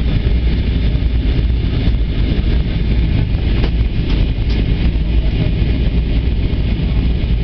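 Steady cabin noise of an Airbus A320 airliner in flight: a continuous low rumble of engines and airflow, heard from inside the passenger cabin.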